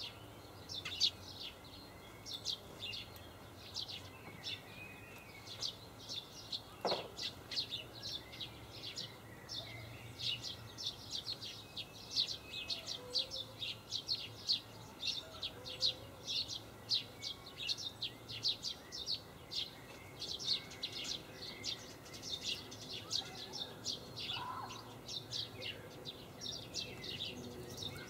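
Small birds chirping steadily, short high chirps coming several times a second without a break, with one brief falling tone about seven seconds in.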